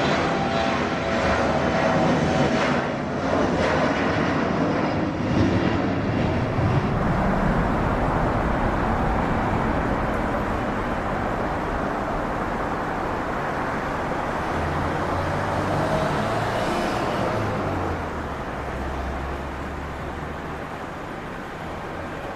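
Jet engine noise of a departing Embraer ERJ-175 airliner, a steady rush with a high whine in the first few seconds, gradually fading as the aircraft moves away.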